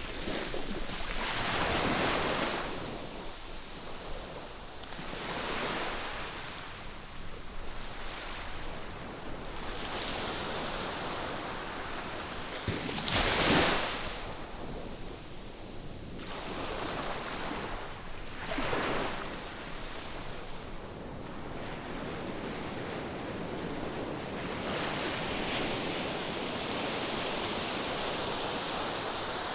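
Ocean surf breaking on a sandy beach: waves rise and wash in every few seconds, the sharpest break about halfway through, over a steady wash of surf and some wind on the microphone.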